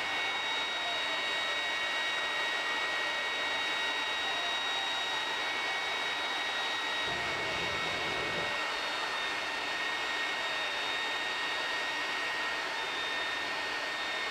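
Steady rushing, blower-like noise with several constant high whistling tones over it, and a brief low rumble about seven seconds in.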